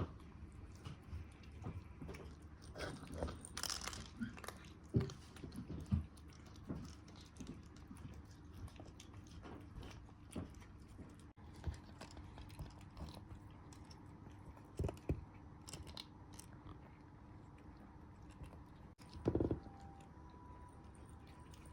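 A cat chewing, with irregular crunching and clicking. A louder thump comes near the end.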